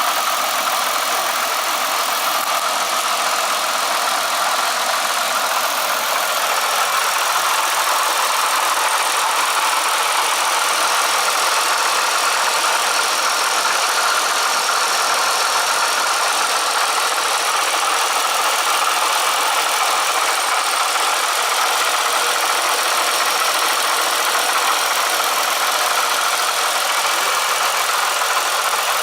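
Bonneville engine running steadily with a persistent rattle that an oil change has not cured; the owner suspects the coupler.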